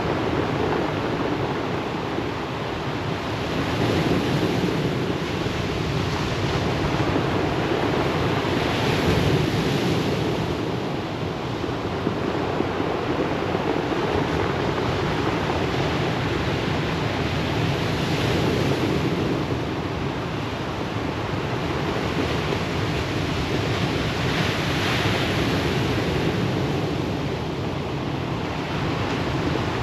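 Ocean surf washing onto a pebble beach: a continuous rushing hiss that swells four times as waves break and wash back.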